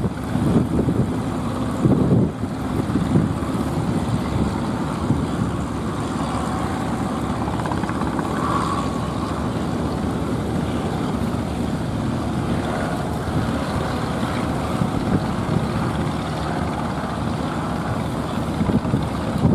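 Strong wind buffeting the microphone, with a steady motor drone under it.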